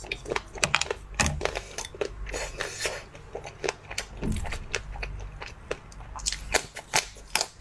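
A person chewing and crunching frozen food close to the microphone: irregular sharp crackles and crunches, several a second.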